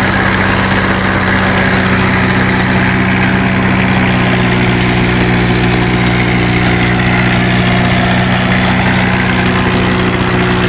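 Tractor engine idling steadily, with a constant low hum.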